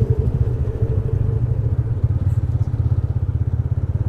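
TVS Ronin's single-cylinder motorcycle engine running steadily, an even, rapid low thumping with no revving.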